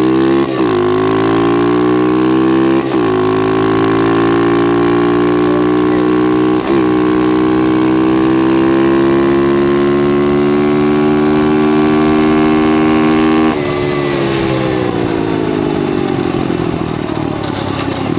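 SSR 125 pit bike's single-cylinder four-stroke engine accelerating flat out through the gears on a top-speed run. The pitch climbs, breaks and drops at three upshifts (about half a second, three seconds and seven seconds in), then holds at high revs. About thirteen and a half seconds in the throttle closes and the engine winds down.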